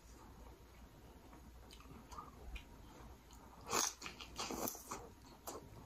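Close-miked biting into and chewing a sauce-coated lobster tail: faint at first, then loud bites and chewing from a little before four seconds in.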